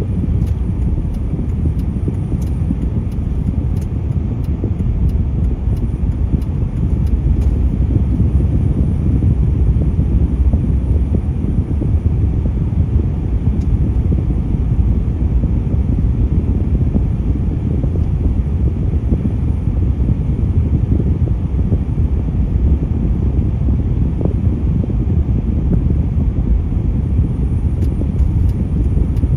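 Steady low rumble of road traffic, with no single vehicle passing close enough to stand out.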